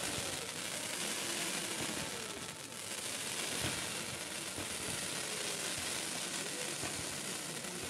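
Fireworks hissing and crackling steadily as sparkling shells rise, with a few sharp pops.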